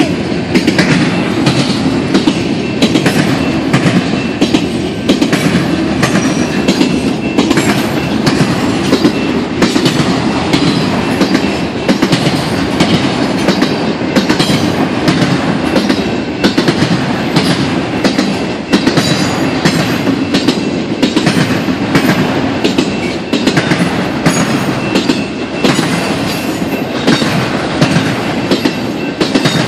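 Freight train of autorack cars rolling past close by: a steady, loud rumble of wheels on rail, with rapid clickety-clack as the wheels cross rail joints.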